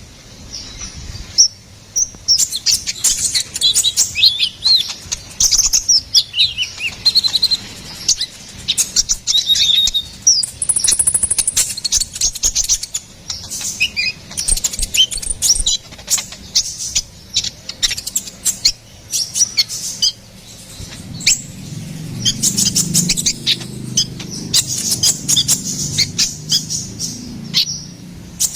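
Konin (kolibri ninja), a small sunbird, singing in fast high-pitched chirps, twitters and short falling notes. A low rumble sits under the song for a few seconds near the end.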